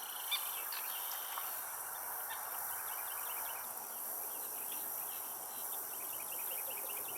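Marsh ambience: a steady high insect buzz, with a quick run of short, repeated chip calls from about two seconds in. A brief tap sounds near the start.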